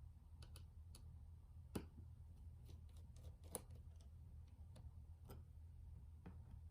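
Faint, scattered small clicks and taps of hand work on small parts, with two sharper clicks near 2 and 3.5 seconds in, over a low steady hum.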